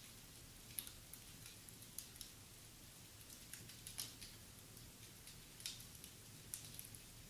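Wood fire crackling in a fireplace: faint, irregular sharp pops and snaps, about a dozen, over a low steady hum.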